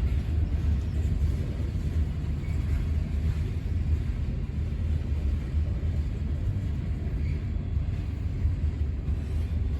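Slow freight train rolling past, a steady low rumble with no distinct clanks or squeals.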